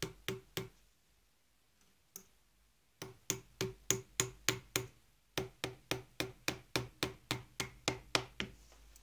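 Light, even taps driving the metal insert of a brass hose fitting straight down into a coffee machine's hose, about three a second, with a brief pause about halfway through.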